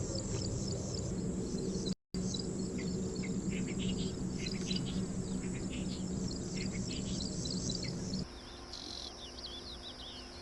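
Many small birds chirping and calling in quick, overlapping notes over a steady low hum. The sound breaks off for a moment about two seconds in. Near the end the hum drops away and only the chirping remains.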